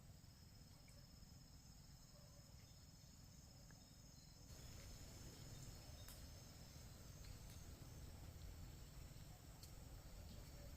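Faint crickets calling steadily in a high, thin tone over quiet background noise. The background noise grows a little louder about four and a half seconds in.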